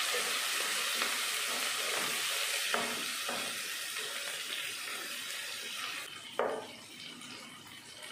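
Curry leaves, chopped onions and green chillies sizzling in hot oil in a pan; the hiss is loudest just after the leaves go in and slowly dies down. A spatula stirring the mix knocks the pan twice, about three seconds in and again about six seconds in.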